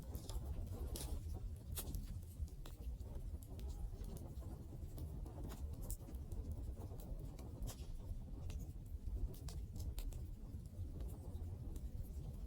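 Wood fire crackling: irregular sharp snaps and pops, a few a second, over a steady low rumble.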